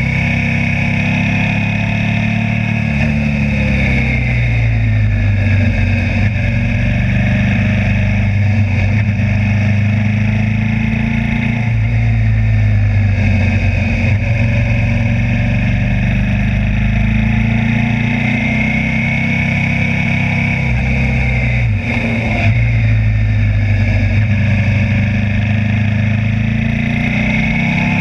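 Suzuki SV V-twin motorcycle engine running under way, its pitch falling and rising several times as the throttle is closed and opened, with a brief break in the sound a little past two-thirds through.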